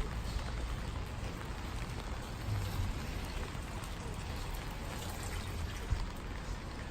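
Steady rain falling: an even hiss with scattered drops ticking, over a low rumble, with a single short knock about six seconds in.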